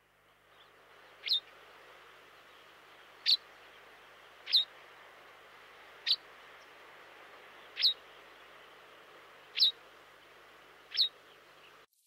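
A bird calling with single short, sharp notes that fall in pitch, seven of them spaced a second or two apart, over a steady faint background hiss.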